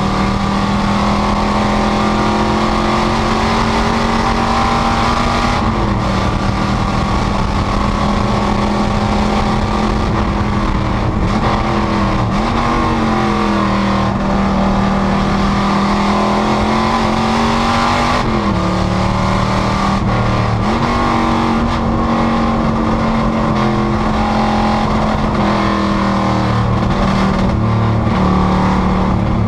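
Panoz GTS race car's engine running hard at high, fairly steady revs. Its pitch dips and climbs back several times, about six, twelve and eighteen to twenty seconds in, as the car lifts and gets back on the throttle through corners.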